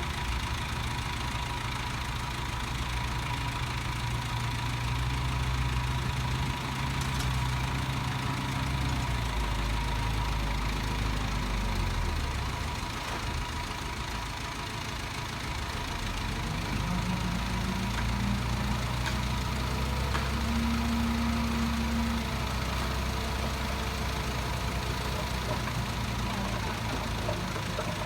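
Heavy diesel engine of earthmoving machinery running steadily under load, its note shifting about a third of the way in and rising for a few seconds past the middle.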